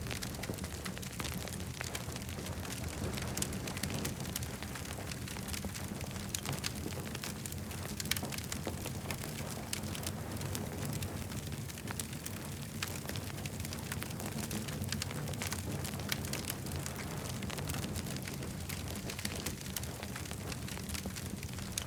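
Campfire burning, with frequent small sharp crackles and pops over a steady low rumble.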